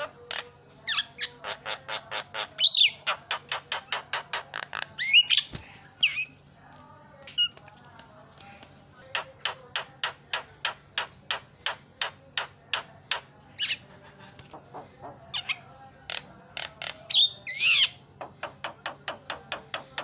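Javan myna (jalak kebo) calling: long runs of short chattering notes, about five a second, broken by a few louder harsh squawks.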